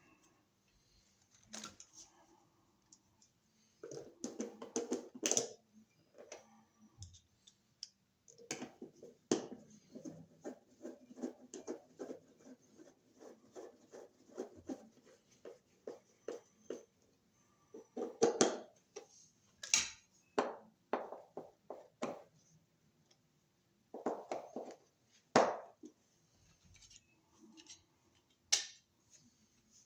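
Hand work fitting a new wall receptacle into its electrical box: irregular clicks and short bursts of scraping and rattling from the wires, the receptacle's metal strap and the screwdriver, with pauses between.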